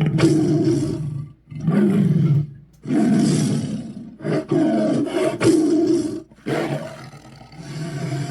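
Chernabog monster sound effects: a series of deep, drawn-out roars, each one to two seconds long, coming one after another with brief pauses between them.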